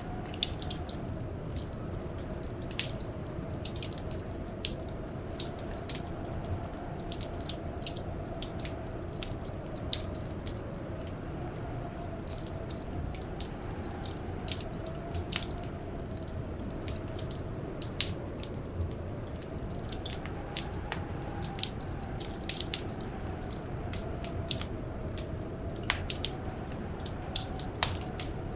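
Wood fire crackling in a fireplace, with irregular sharp pops over a steady low rumble. A faint, slowly wavering whistle of blizzard wind runs underneath.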